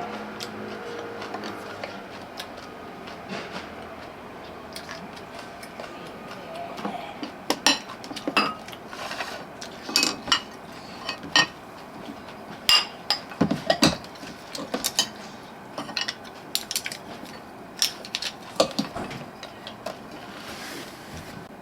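Dishes and cutlery clinking and knocking: a quick, irregular run of sharp clinks, some of them briefly ringing, through the middle of the stretch.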